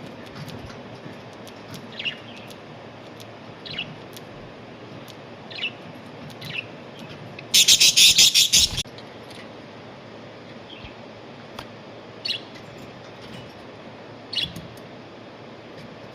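Pet budgerigars chirping, single short calls every second or two, with one loud harsh burst of rapid pulses lasting about a second, about halfway through.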